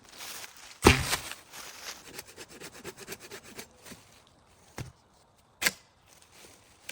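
A loud thud about a second in, then a couple of seconds of rubbing and scraping, and two sharp knocks later on, like wood being handled.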